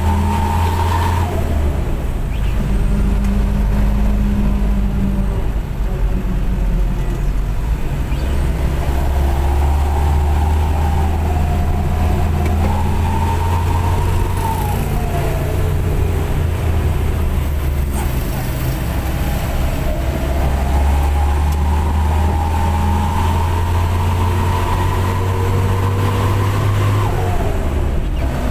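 Minibus diesel engine and its aftermarket 'wolf' exhaust heard from on board while under way: a steady low drone that falls and picks up again several times as the driver works through the gears, with a thin wavering whine above it.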